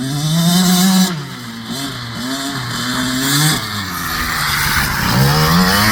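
Husqvarna TC65's 65cc two-stroke dirt-bike engine revving as it is ridden. The pitch climbs, falls off about a second in, climbs again, drops around three and a half seconds, then rises again near the end.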